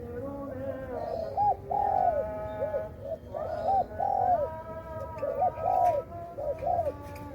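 Spotted dove cooing: a run of short, soft hooting notes repeated throughout.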